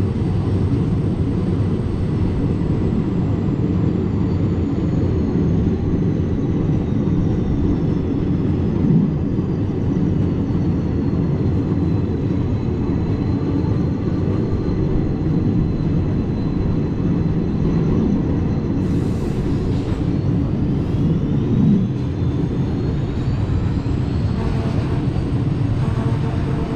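Passenger train running on the track: a loud, steady low rumble, with a faint high whine that slowly falls in pitch and later climbs again.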